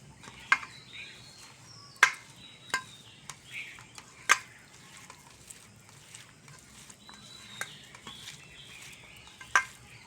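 Hands mashing and mixing fried greens with boiled potatoes into a vorta in a dish, with soft mixing sounds and a handful of sharp taps against the dish, the loudest about two and four seconds in.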